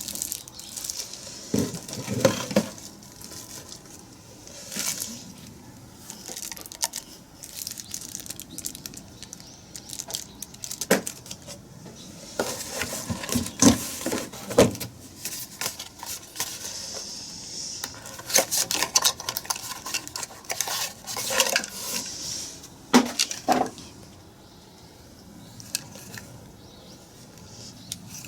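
Hard objects being handled: scattered clicks, knocks and light rattles with some rustling, busiest in the middle and again a few seconds before the end. No motor is running.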